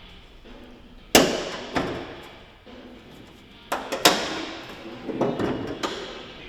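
Sharp metal knocks and clanks from work on a diesel engine teardown, about half a dozen hits with short ringing after each, the loudest about a second in and again near four seconds.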